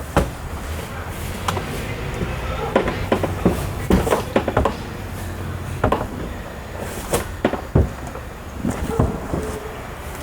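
Irregular sharp knocks and clicks of hands and tools working on a car's door and trim, over a steady low hum.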